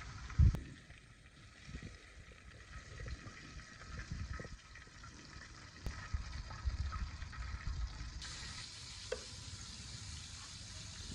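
Chicken wings frying in hot oil, a steady sizzle that grows louder and hissier about eight seconds in. There is a single thump about half a second in.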